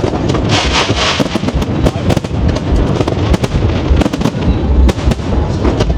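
Aerial fireworks display: a dense, continuous barrage of shell bursts and bangs, with a spell of crackling hiss about a second in.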